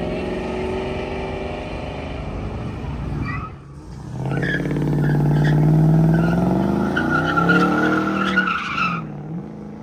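Car engine running and fading, then another car's engine revving up hard as it pulls away, with its tires squealing for about two seconds near the end.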